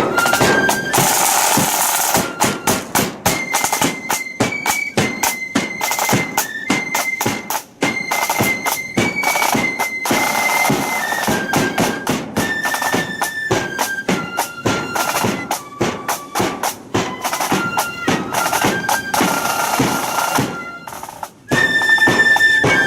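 Blood-and-thunder flute band playing on the march: massed flutes carry a melody over rapid, heavy snare and bass drum beats. The music breaks off briefly near the end, then starts again loudly.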